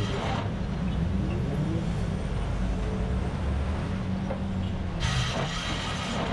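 Road traffic: vehicle engines running with a continuous low rumble and an engine's pitch gliding up and down. The hiss of passing tyres fades out about half a second in and comes back near the end.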